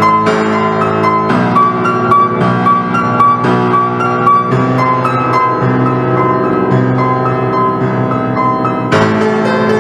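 Instrumental keyboard music: piano-like notes struck over sustained lower chords.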